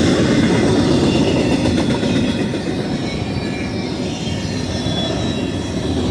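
BNSF intermodal freight train rolling past: a steady, loud rumble of steel wheels on the rails, with faint high squeal tones above it.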